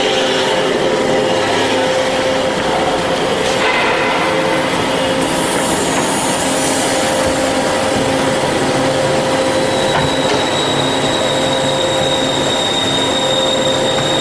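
Band saw running steadily, a loud machine noise with a steady hum. A thin high whine joins it about ten seconds in.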